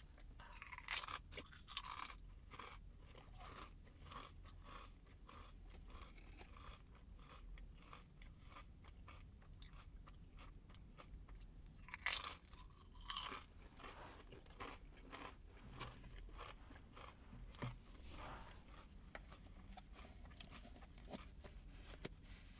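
Close-up crunching and chewing of crisp chips, with a run of repeated chewing crunches; the loudest crunches come in the first couple of seconds and again about twelve seconds in.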